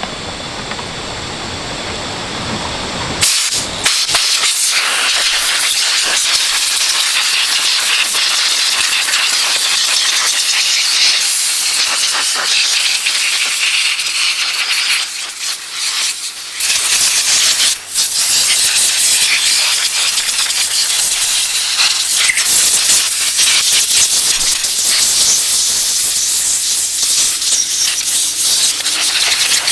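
Loud, steady hiss of compressed air spraying, starting suddenly about three seconds in and breaking off briefly a few times around the middle.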